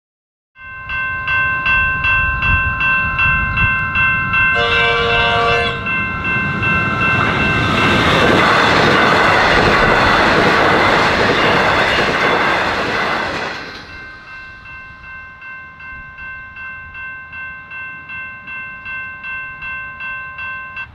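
Level crossing bells ringing about twice a second. A Comeng electric suburban train sounds its horn for about a second and a half, then rushes through the crossing, its loud running and wheel noise drowning the bells for several seconds. The bells ring on after the train has passed.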